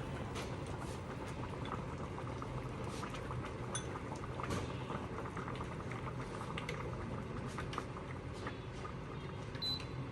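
Stingray hotpot broth boiling: a steady bubbling with many small scattered pops.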